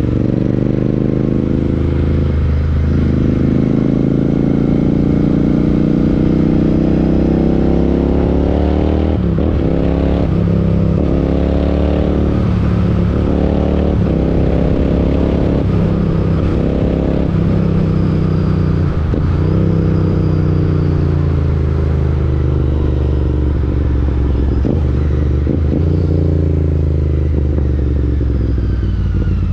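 Royal Enfield Interceptor 650's parallel-twin engine through an aftermarket Chris Michael exhaust, on the move. The pitch climbs and drops back several times in quick succession through the middle as the bike shifts up through the gears. It then holds steady and falls away near the end as the throttle rolls off.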